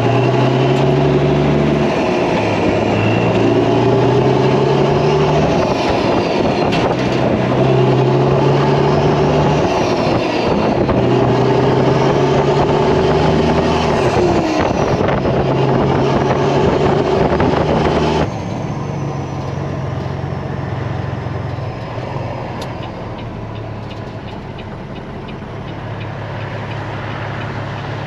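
Diesel engine of a Peterbilt 379 semi truck with straight pipes pulling away and shifting up through the gears: the engine note rises, drops at each shift, and rises again. About two-thirds of the way through it abruptly becomes quieter and steadier.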